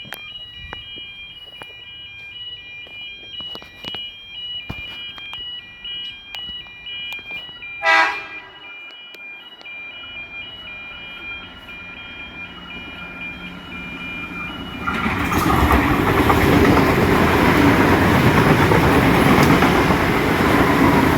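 A repeating two-note electronic warning tone, with a train horn giving one short blast about eight seconds in. From about fifteen seconds a train comes through with a loud, steady rumble.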